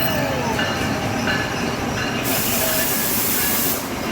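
Passenger train running through the station: a steady rumble of wheels on rail with thin, high wheel-squeal tones. About two seconds in, a sharp hiss starts abruptly and lasts about a second and a half.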